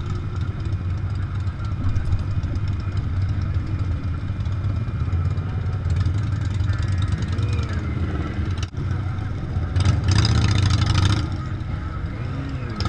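Big motorcycle engines running, a steady low drone with a loud surge of noise lasting about a second and a half, some ten seconds in. The sound briefly cuts out just before the surge.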